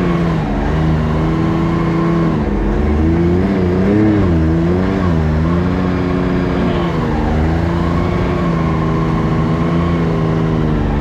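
Can-Am Maverick X3 side-by-side's three-cylinder turbo engine running under changing throttle on a trail. Its pitch rises and falls several times in the middle and holds steadier near the start and the end.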